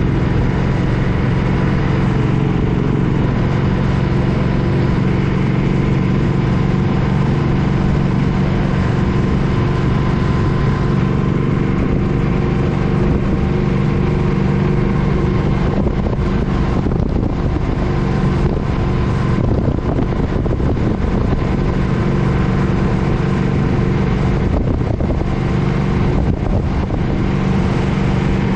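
Suzuki Boulevard M50's V-twin engine running at a steady cruising speed on the road, heard from the bike with wind buffeting the microphone.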